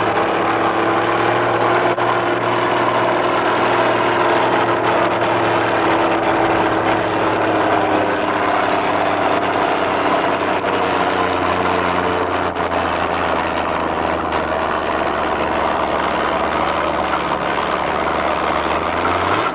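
Farm tractor engine, typical of the diesels in a 5500 lb open-class tractor pull, running steadily at a fairly constant speed.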